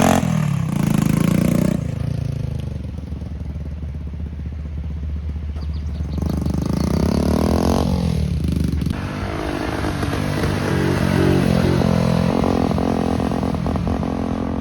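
Honda CT70 mini bike's small single-cylinder four-stroke engine running under way, its pitch rising and falling as the throttle is worked.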